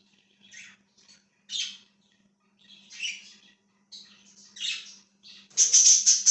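Pet budgerigars chirping and squawking: short, high-pitched calls about once a second, breaking into a loud run of rapid squawks near the end.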